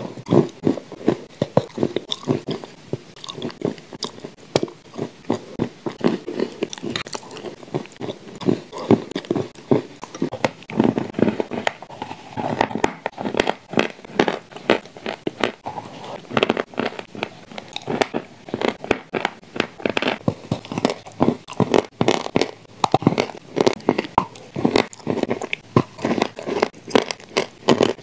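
Close-up crunching and chewing of shortbread cookies coated with wet clay paste, with many sharp, irregular crunches a second.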